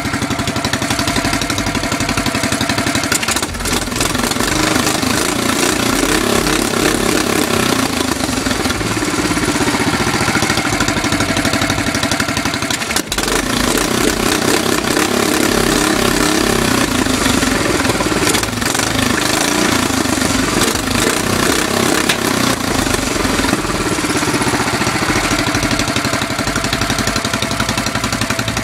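Honda GX390 single-cylinder four-stroke engine running and revved up and down several times. It pulls cleanly without wanting to stall on its freshly drilled, slightly larger main jet.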